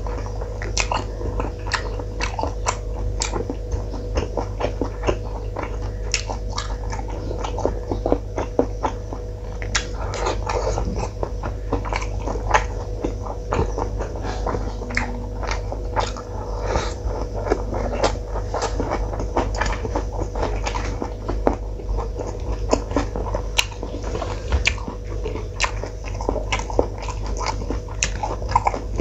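Close-miked chewing and lip-smacking of a man eating rice and curry by hand, with many small wet clicks of mouth and fingers in the food, over a steady low hum.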